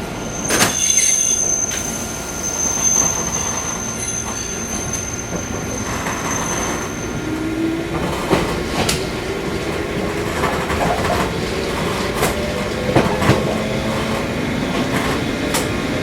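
Fukui Railway 200-series electric railcar running and picking up speed: a thin high wheel squeal for the first several seconds, then the traction motor whine rising slowly in pitch as the car accelerates, with scattered knocks of the wheels over rail joints.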